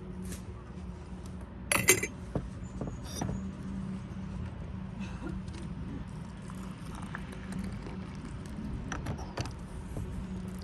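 Cups and tea ware being handled, with a few light clinks and taps, the loudest about two seconds in and more near the end, over a steady low hum.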